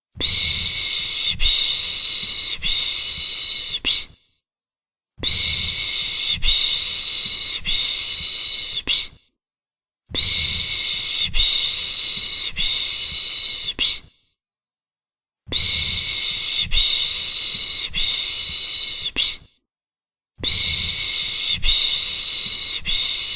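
Rhythmic shushing to soothe a baby, the Turkish 'pış pış' sound: long 'shhh' hisses of about four seconds each, separated by short silences, five times over.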